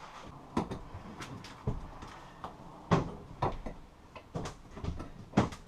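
A run of irregular knocks and clunks, about a dozen in a few seconds, on the wooden structure of a boat cabin.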